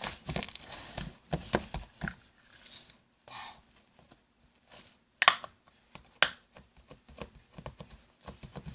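Homemade salt-and-shampoo slime being pressed and poked by hand, giving irregular small wet clicks and crackles, with two louder pops a little after five and six seconds in.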